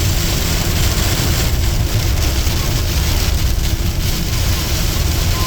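Heavy thunderstorm downpour: a loud, steady hiss of dense rain with a deep rumble underneath.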